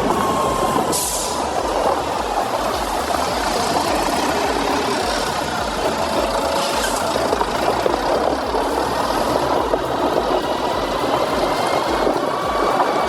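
Heavy truck engine running steadily as the truck drives, with two short hisses about a second and about seven seconds in.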